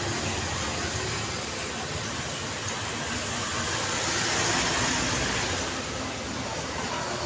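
City street traffic: a steady wash of tyre and engine noise, swelling about four to five seconds in as a vehicle passes and easing off again.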